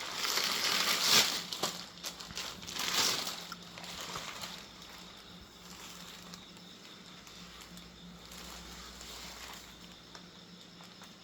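Plastic wrapping and tape on a shipped fishing rod package crinkling and rustling as it is handled and unwrapped. There are a few louder bursts in the first three seconds or so, then quieter handling noise.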